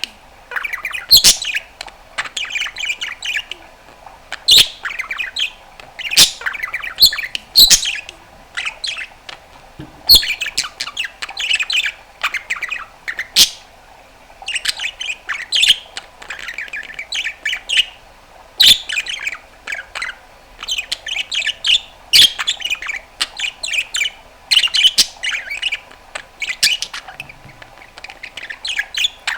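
Pet budgerigar chattering continuously: a rapid run of warbles, chirps and squawks broken by sharp clicks and pops.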